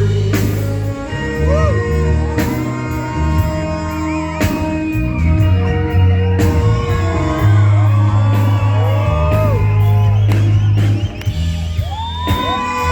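Live rock band playing an instrumental passage between sung lines, with a heavy bass line, drum and cymbal hits and sliding melody notes, while the crowd shouts and whoops in a large hall.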